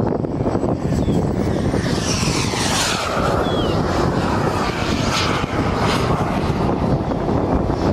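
RC jet plane passing overhead, its high whine sweeping down in pitch as it flies by, over steady wind noise on the microphone.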